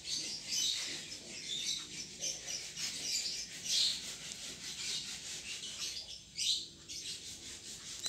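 Small birds chirping intermittently in the background, with one rising call about six and a half seconds in, over faint rubbing from a handheld phone being moved.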